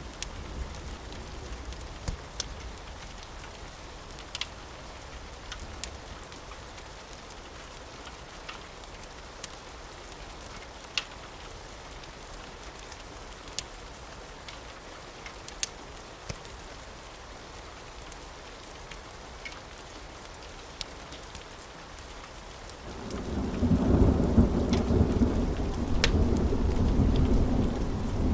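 Steady rain with a wood fire crackling in scattered sharp pops. About 23 seconds in, a loud rumble of thunder rolls in and keeps going.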